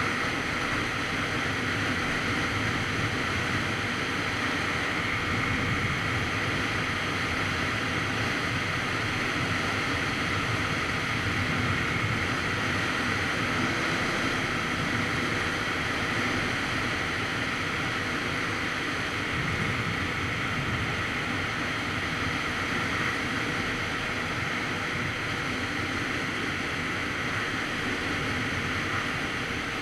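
Steady wind noise buffeting the microphone of a Kawasaki Z900RS Cafe on the move, with the bike's inline-four engine running under the wind.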